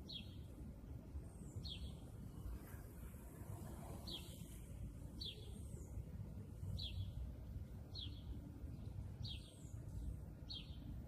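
A small bird calling a short, high, downward-slurred chirp over and over, about every second and a half, eight times, over a steady low rumble.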